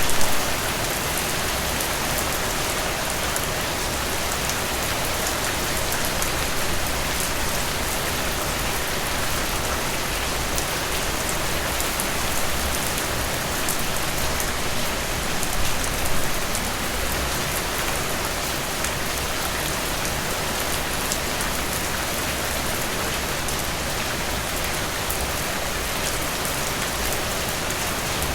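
Steady rain falling: a dense, even hiss with many small drop ticks. A few louder drops land at the very start.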